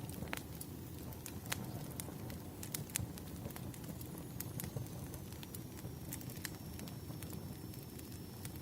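Firewood burning, with frequent irregular sharp crackles and pops over a low steady rumble of the fire.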